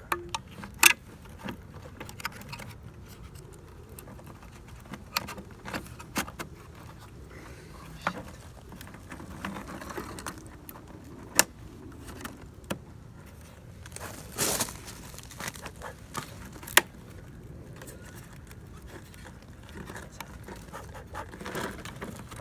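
Scattered clicks, taps and knocks of plastic and metal as a BMW 325i headlight and its fittings are handled and clipped into place, with a brief scraping rustle about two-thirds through.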